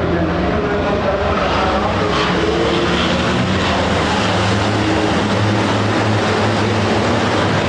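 Race trucks' big diesel engines droning at speed, several engine notes overlapping with their pitches shifting as they pass.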